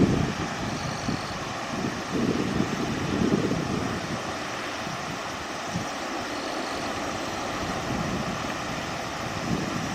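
Steady rushing of river water, with gusts of wind buffeting the microphone at the start, a couple of seconds in, and near the end.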